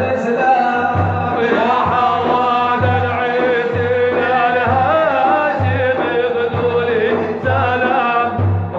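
A man's voice singing a madih, an Arabic devotional praise song, in a wavering, ornamented melody over a steady low beat about once a second.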